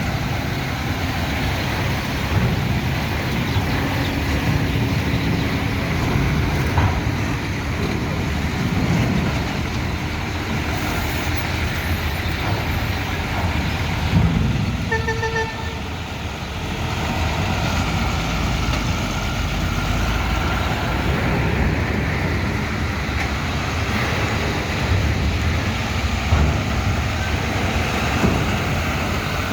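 Heavy truck and bus engines running steadily, with a short horn toot about halfway through.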